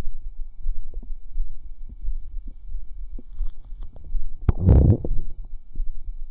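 Stomach gurgling recorded close up against the belly: a low pulsing underneath, a few small pops, and one loud bubbling gurgle about four and a half seconds in.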